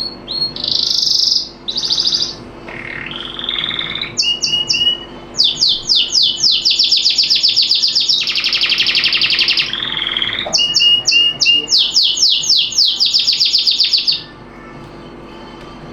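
A songbird singing a long run of fast, high-pitched repeated chirps and trills. The song stops about two seconds before the end.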